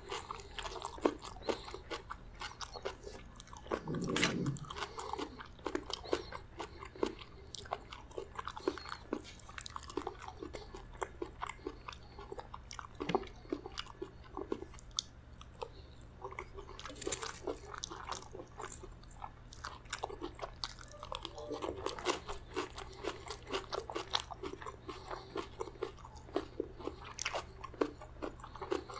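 Close-miked chewing and crunching of spicy chicken gizzard curry with rice and salad, with many short sharp clicks as a metal spoon scrapes and taps on a steel plate between mouthfuls.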